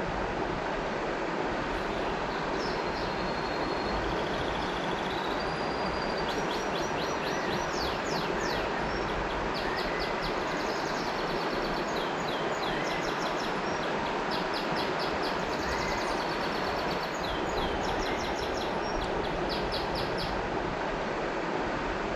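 River water flowing steadily, with birds singing over it: fast high trills that come and go from a few seconds in, and a few short chirps.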